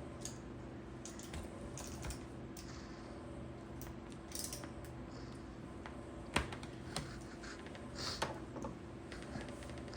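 Scattered light clicks, taps and rustles of hands working an extension cord's stripped wire into the terminal of a replacement plug, with one sharper click a little past halfway.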